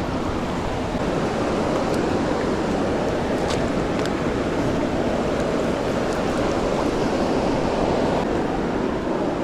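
Steady rush of flowing river water, with a few faint clicks about two to four seconds in.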